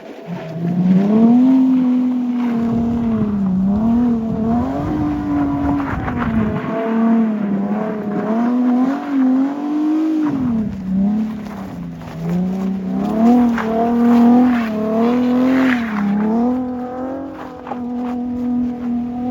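Infiniti G37S V6 engine revving hard, its pitch rising and falling every second or two as the throttle is worked during a snow drift.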